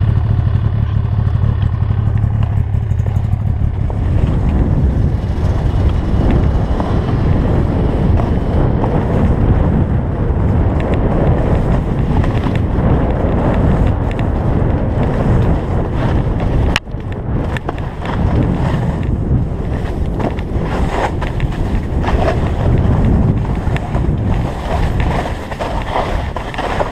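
Loud, continuous wind buffeting the camera microphone, as on a fast ski descent, with a sudden break about 17 seconds in.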